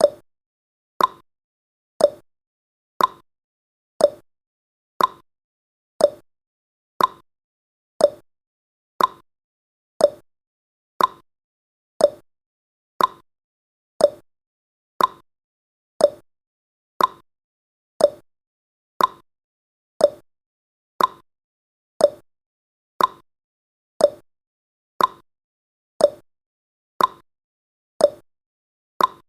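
Countdown timer's tick sound effect: one short, sharp tick each second, evenly spaced, with silence between the ticks.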